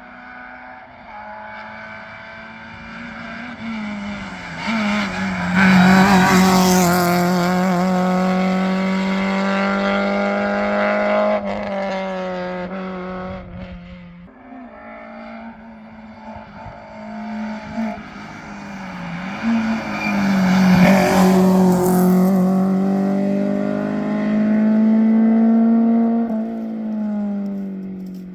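Two rally cars passing at speed one after the other, each engine note climbing and dipping through gear changes and loudest as the car goes by, about 6 seconds in and again about 21 seconds in.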